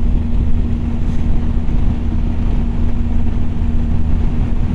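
BMW R1250GS Adventure's boxer-twin engine running at a steady cruise, holding one even pitch, under a steady rush of wind and road noise.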